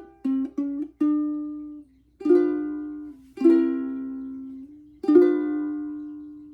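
Hand-built long-neck soprano ukulele tuned GCEA being played: a few quick plucked notes, then four strummed chords about a second apart, the last left to ring out and fade away.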